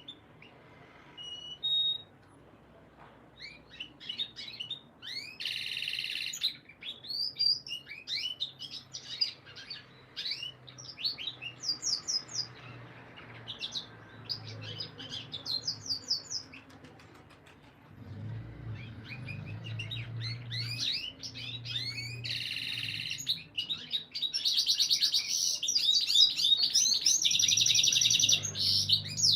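Canary singing: quick runs of high, downward-sweeping whistled notes, broken by two short harsh buzzy notes, one about six seconds in and one about twenty-three seconds in. A fast, loud, rolling trill takes over for the last five seconds.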